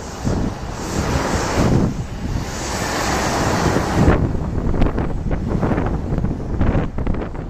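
Boeing 737-800's CFM56-7B jet engines at takeoff power, a broad roar whose hiss fades about four seconds in, with heavy wind buffeting on the microphone.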